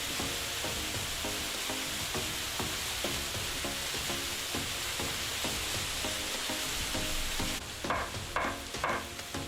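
A steady hiss of noise over background music with a repeating plucked pattern. Near the end the hiss cuts off, and three short, sharp strikes sound about half a second apart.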